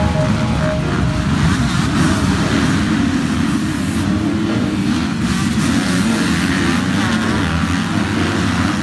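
Motocross bike engines running hard and revving, a dense steady engine din with the pitch wavering up and down as the throttle changes.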